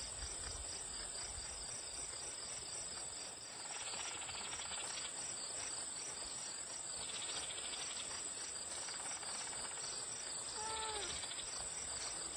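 A steady chorus of insects, with a continuous high trill and a fast pulsing chirp underneath. About eleven seconds in there is one short, slightly falling call.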